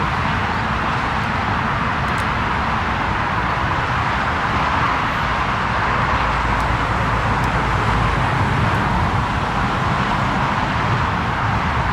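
Steady jet noise from a Lufthansa Airbus A340-300's four CFM56 turbofan engines, an even rushing sound with a deep rumble underneath that holds level throughout.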